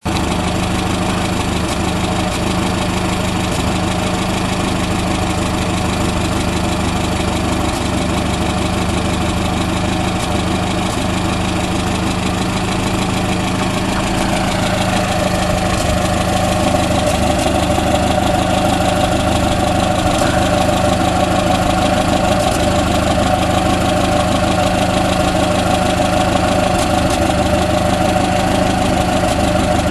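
1952 Renault Colorale Prairie's 85 side-valve four-cylinder engine idling steadily, warm from a drive. About halfway through, a mid-pitched hum in the running grows stronger and the sound gets slightly louder.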